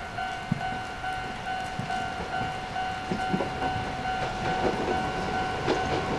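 Chichibu Railway 5000 series electric train approaching, its wheel clicks growing thicker and louder toward the end, under a steady repeating electronic warning tone.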